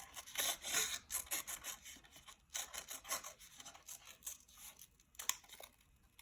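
Paper rubbing and rustling as craft paper is handled and slid on a table, in quick irregular scratchy strokes that are busiest in the first couple of seconds and thin out after that.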